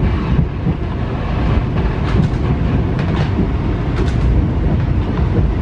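Passenger train running along the line, heard from on board: a steady loud rumble of wheels and carriage, with a few sharp clicks of the wheels over the track.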